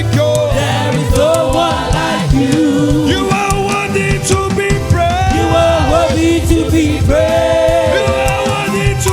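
Church choir singing a gospel praise song with instruments playing along and a steady bass underneath.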